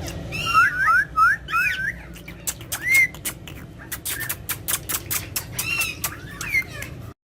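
Pet parrots making short chirping whistle calls that swoop up and down. A quick run of sharp clicks follows in the second half, and the sound cuts off abruptly near the end.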